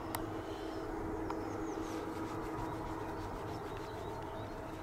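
Steady hum of a train with a low rumble underneath, and birds chirping over it.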